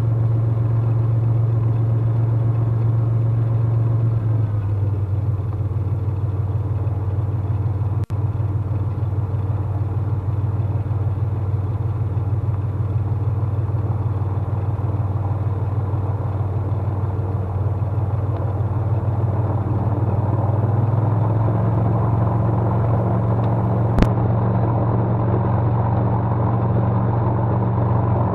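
Cessna T210's turbocharged six-cylinder piston engine running at low taxi power, a steady drone that shifts slightly in pitch about four seconds in and again about twenty seconds in. A sharp click sounds about eight seconds in and another near the end.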